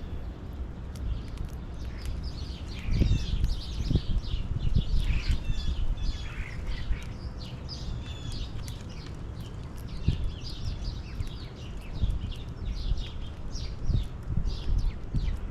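Several small birds chirping steadily, many short overlapping calls, over a low rumble with a few dull knocks.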